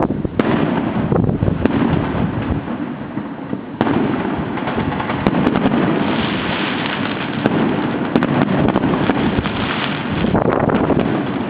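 Many fireworks going off at once, a dense continuous crackle of pops and bangs, with a sharp louder bang about four seconds in.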